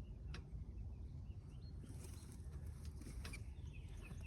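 Quiet outdoor ambience: a low rumble of wind on the microphone with faint bird chirps and two light clicks, one about half a second in and one near the end.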